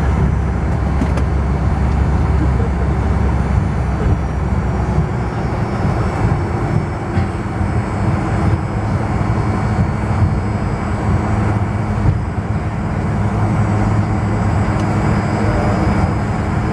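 Cabin noise of a Fokker 100 airliner taxiing: the rear-mounted Rolls-Royce Tay turbofans run with a steady deep rumble and hum, and a faint high whine sits above. The deepest part of the rumble eases about five seconds in.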